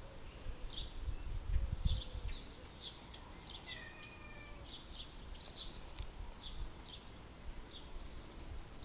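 Small birds chirping in the background, short high chirps repeating about every half second, with a low rumble about one to two seconds in.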